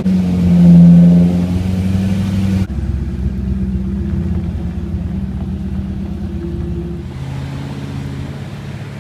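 Chevrolet Corvette V8 engines running steadily, in short clips cut together. First a 2003 Corvette's V8, loudest about a second in. After cuts near three and seven seconds come other steady engine notes, one of them a 1963 Corvette Stingray's V8.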